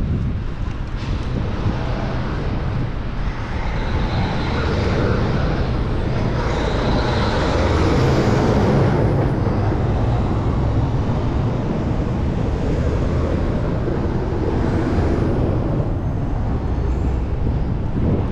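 Wind rumbling on the microphone of a moving bicycle, with city road traffic going by; one vehicle passing swells louder in the middle and then fades.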